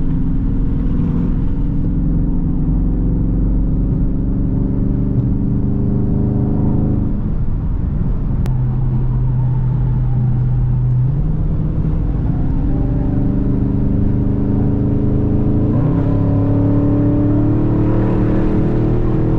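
Straight-piped Dodge Scat Pack's 6.4-litre HEMI V8 pulling through traffic. The exhaust note climbs slowly, drops at a gear change about seven seconds in and holds low for a few seconds, then climbs again, stepping up in pitch around sixteen seconds in.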